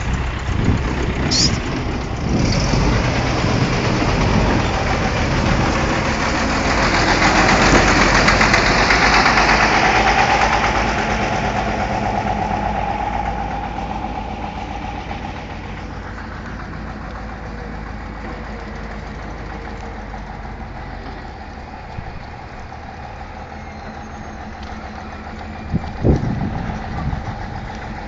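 Engine of heavy road-construction machinery running, loudest a few seconds in and then settling to a steadier, quieter drone like an idle. A sharp clank sounds near the end.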